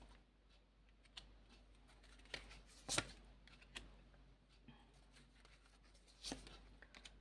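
Tarot cards being handled and laid out: a few scattered soft flicks and taps, the loudest about three seconds in, over near quiet.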